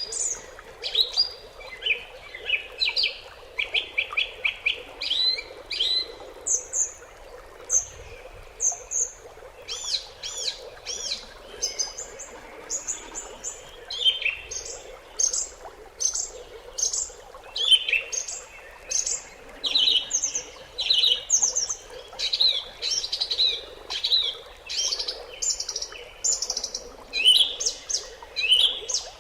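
Several small songbirds chirping and trilling in quick, overlapping bursts of high, short notes, with a steady low background noise underneath.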